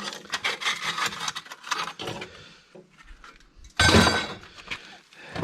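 Clinking and clattering of hard scrap objects being handled and set down, with one loud crash about four seconds in.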